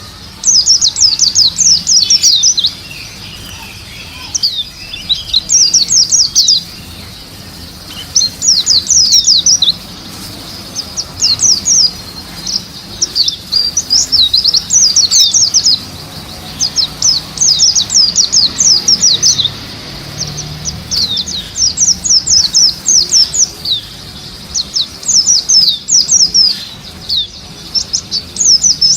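White-eye (Zosterops, 'pleci') singing: loud, quick phrases of high, rapid chirps, each one to two seconds long, repeated over and over with short pauses between.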